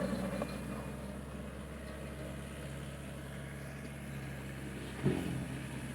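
An engine running steadily at an even speed, with one short knock about five seconds in.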